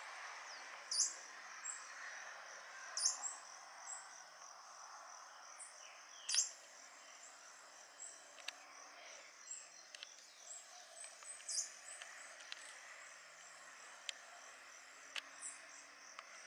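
Backyard birds giving short, sharp high chirps every few seconds over a steady, fast-pulsing insect trill.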